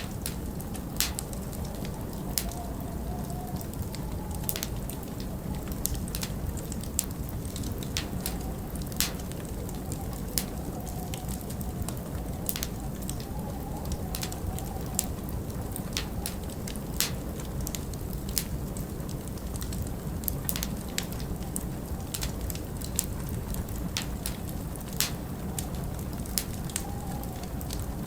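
Burning logs crackling, with sharp irregular pops about once or twice a second, over a steady low rumble of storm wind.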